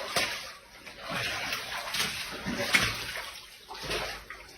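Shallow cave-stream water splashing and sloshing in irregular bursts as someone wades or crawls through it.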